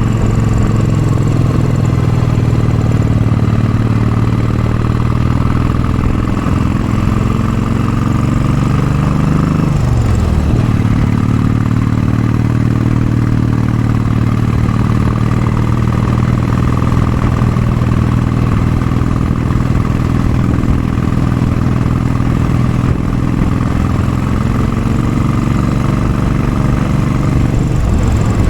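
Royal Enfield Bullet 500 single-cylinder engine running steadily under load up a steep hill, through a Mass Moto Bottiglia exhaust with baffles fitted. About ten seconds in, the engine note drops sharply and then settles back to a steady pull.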